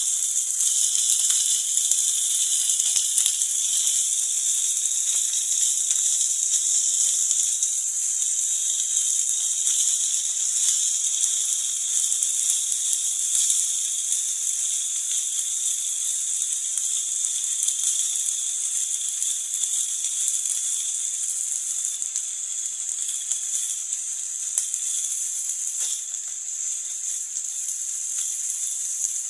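Fried rice with chopped mustard greens sizzling in a non-stick frying pan over a gas flame: a steady high hiss while it is stir-fried, with occasional faint taps and scrapes of the spatula.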